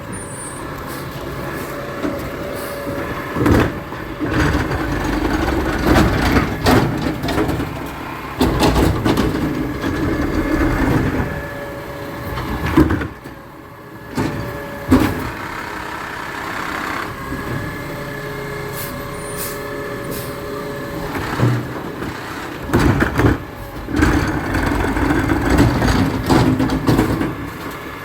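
Garbage truck running, with a steady whine that comes and goes and several sharp clanks spread through.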